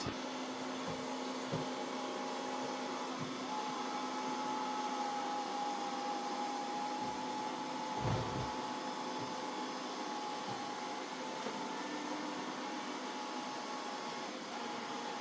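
Mova Z60 robot vacuum running steadily, with a constant hum and a steady whine, and a few soft knocks. The loudest knock comes about eight seconds in.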